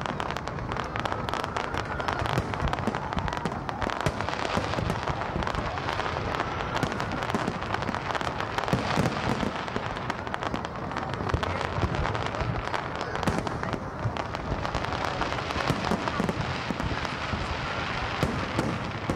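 Aerial fireworks bursting in a dense, continuous barrage of cracks and pops.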